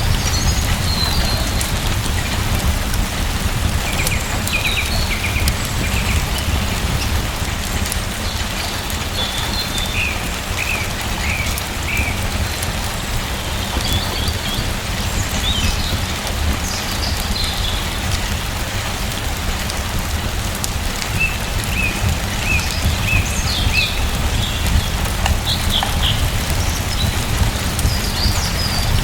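Steady rain falling, with a deep steady rumble under it. A bird chirps in short series of quick notes every few seconds.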